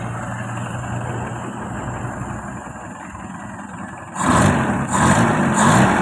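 Toyota 4K inline-four engine idling somewhat rough while its carburetor idle air screw is being set, then revved in three quick blips of the throttle about four seconds in.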